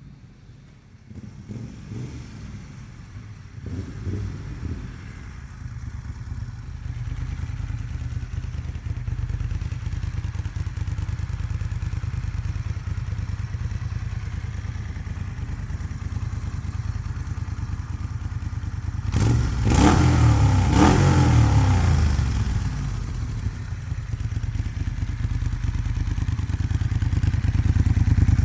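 Moto Guzzi Griso 1200 8V SE's air-cooled V-twin idling through a Termignoni exhaust with its dB killer fitted. It is blipped briefly early on and revved twice in quick succession about two-thirds of the way in, then falls back to a steady idle that grows louder near the end.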